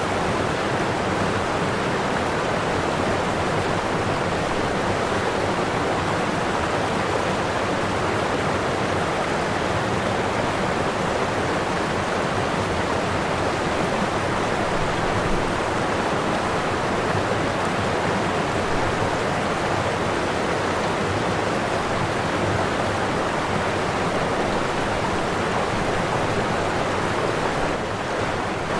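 Waterfall: a steady, dense rush of falling and splashing water.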